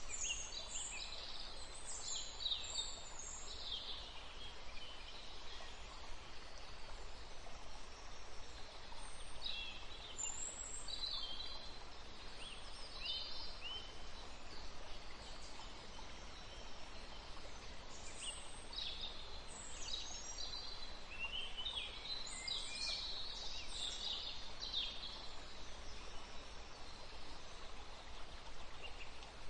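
Birds chirping and twittering in scattered clusters of short, high, mostly falling calls over a steady background hiss.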